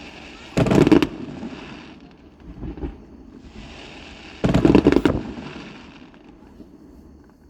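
Aerial fireworks shells bursting: two loud bangs about four seconds apart, each followed by a fading crackle, with a fainter pop between them.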